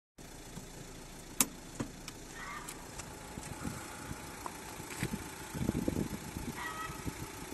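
Renault Fluence/Megane 3 car engine idling steadily, with a sharp click about a second and a half in and a few lighter clicks after it.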